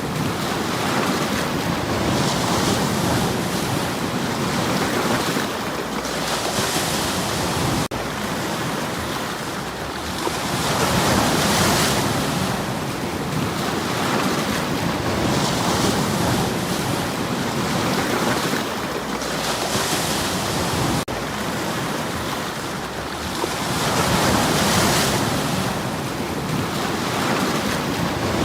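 Sea waves breaking on a stony shore, the surf swelling and falling away every four to five seconds.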